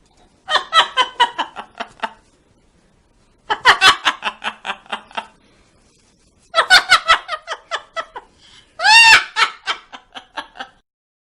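Loud cackling laughter in four bouts of rapid ha-ha-ha pulses, each bout a second and a half to two seconds long with short silences between. The last bout opens with a rising-and-falling cry.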